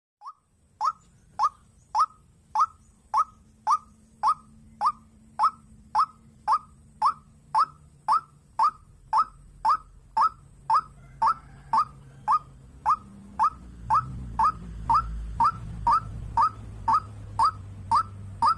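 White-breasted waterhen (dahuk) calling, one short note repeated very evenly, nearly two a second. A low hum underneath grows louder in the second half.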